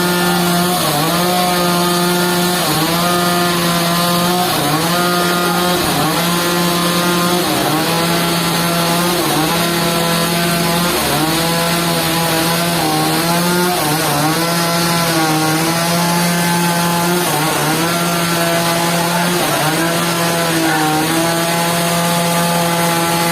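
Powered sawmill machine sawing wood: a loud, steady motor hum whose pitch dips briefly every second or two, with a hiss of cutting over it.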